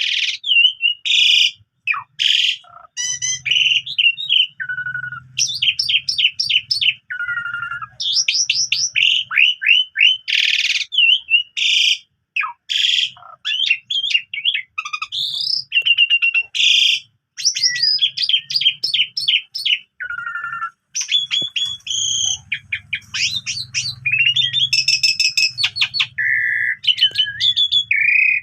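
Asian pied starling (jalak suren) singing non-stop in its full, varied repertoire: fast whistled sweeps, trills and sharp chirps in quick phrases, broken by brief pauses.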